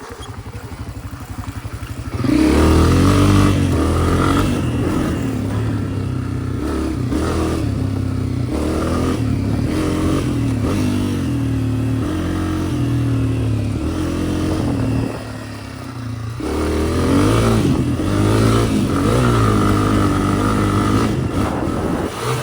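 Honda CRF250F dirt bike's single-cylinder four-stroke engine under way, quieter for the first two seconds, then revving up loudly about two seconds in, its pitch rising and falling with the throttle. Near the middle it drops off briefly before the throttle comes back on.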